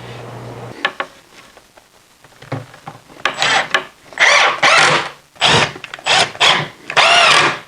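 Screws being driven into the door hinges of a plywood cabinet: a few faint clicks, then about five short bursts of screw-driving, each under a second, from about three seconds in.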